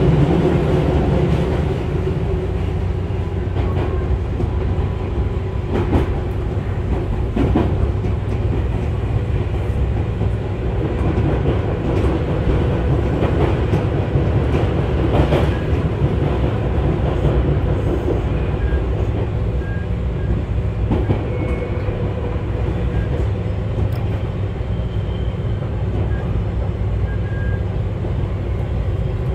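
Tobu 6050 series electric train heard from inside the car while running: a steady rumble of wheels and running gear. Scattered clacks come from the wheels passing over rail joints.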